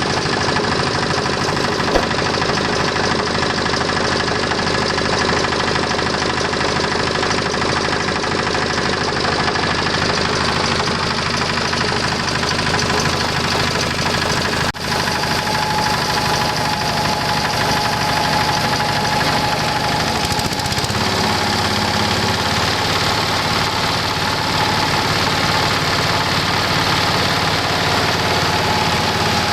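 Rice husk grinding machine running steadily, its motor and grinder making a loud, dense mechanical din; the running note shifts slightly about two-thirds of the way through.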